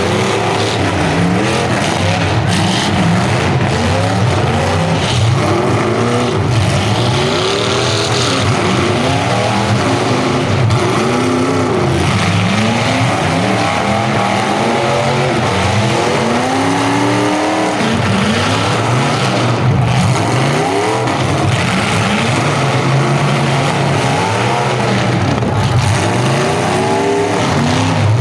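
Engines of several full-size demolition derby cars revving hard at once, their pitches rising and falling over one another without a break.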